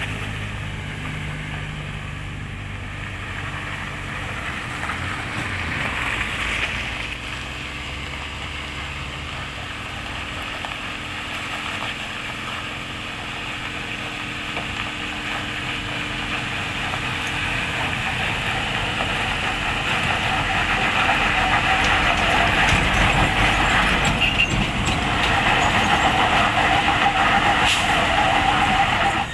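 Hino container truck's diesel engine labouring under heavy load on a steep climb, a steady drone that grows louder over the last third.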